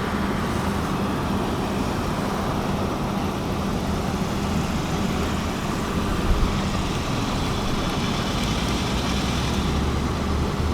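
A motor vehicle engine running steadily, a continuous low hum whose pitch shifts lower about halfway through.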